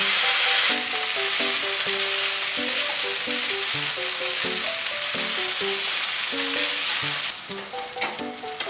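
Raw rice and diced vegetables sizzling as they are stir-fried in a frying pan and stirred with a spatula. The sizzle falls away near the end.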